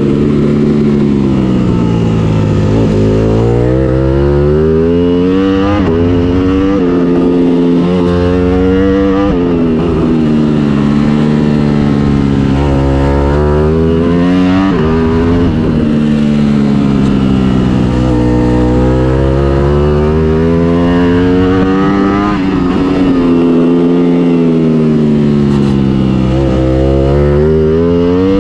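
Ducati Panigale V4's 1103 cc V4 engine through an Akrapovic exhaust, heard on board at racing speed. The revs climb through a run of quick upshifts, each one a sudden drop in pitch, then fall in a long sweep as the bike slows for a corner, and this repeats several times.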